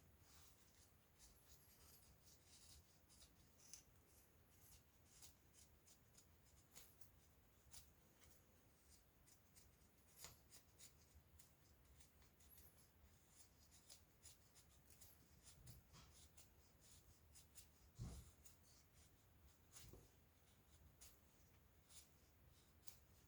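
Faint, scattered scraping and scratching strokes from fire-lighting work on fatwood, with a few louder knocks about ten, eighteen and twenty seconds in.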